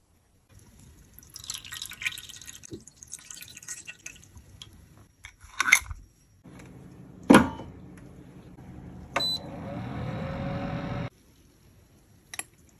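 Close-up handling sounds of cosmetic repair: light scraping, then two sharp clicks. Near the end, liquid pours for about two seconds with a faintly rising pitch, then stops suddenly.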